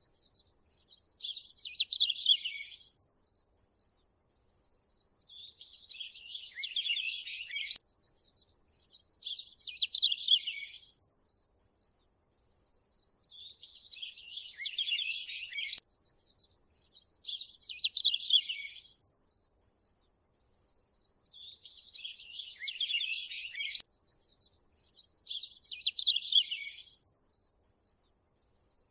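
Nature ambience: birds chirping in short clusters about every four seconds, in an evenly repeating pattern, over a steady high hiss.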